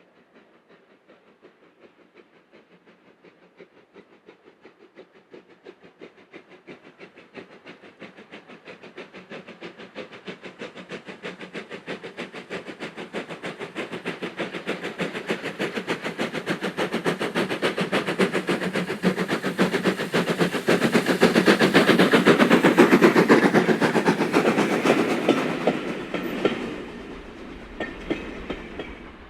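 Steam locomotive approaching at speed with a rapid, regular beat, growing steadily louder to a peak, then falling away abruptly as it passes.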